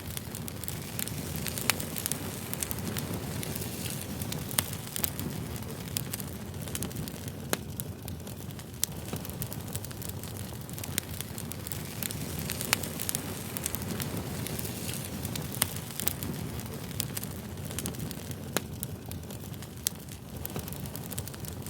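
Wood fire burning with a low roar and frequent sharp, irregular crackles and pops.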